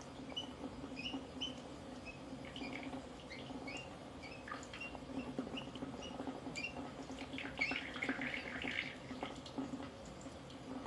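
Pet bird making many short, high chirps and squeaks, scattered through and busier toward the later part, over a steady low hum.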